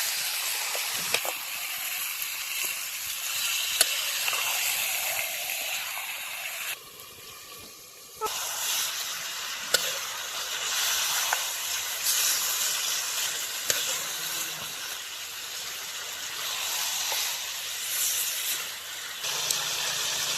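Pork sizzling in a cooking pot, a steady hiss with a few sharp clicks. The sizzle drops away briefly about seven seconds in, then comes back.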